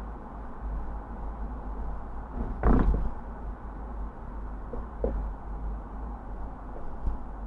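Steady low rumble of a car driving along a road, with one loud thump a little under three seconds in and lighter knocks later.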